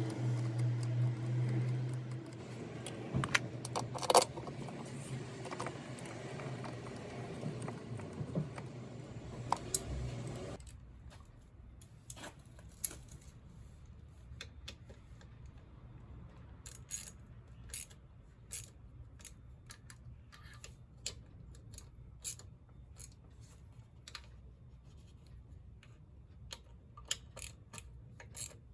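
Metal tools and scooter parts clicking and clinking as they are handled during clutch work. A steady low hum runs under it for about the first ten seconds, then cuts off suddenly, leaving scattered sharp clicks.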